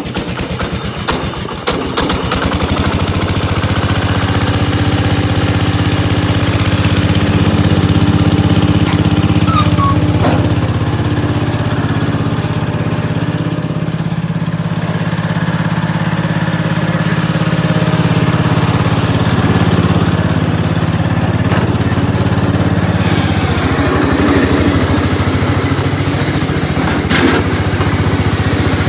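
Gravely 812 walk-behind tractor's single-cylinder Kohler engine started cold on choke. It runs unevenly for the first couple of seconds, then settles into a steady run.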